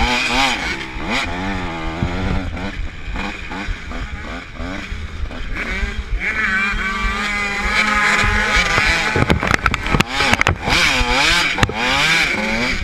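Several supermini motocross bikes revving up and down as they race, their engine notes rising and falling over each other, with one bike holding a steady high note from about six seconds in. A cluster of sharp knocks or crackles comes about nine to ten seconds in.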